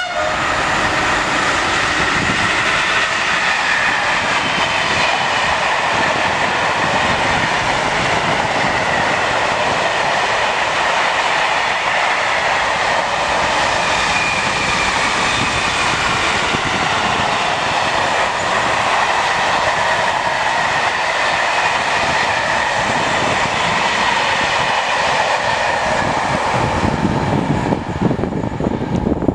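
Freight train of tank and hopper wagons running past at speed behind an electric locomotive: a steady, loud rolling of steel wheels on the rails, tailing off near the end as the last wagons go by.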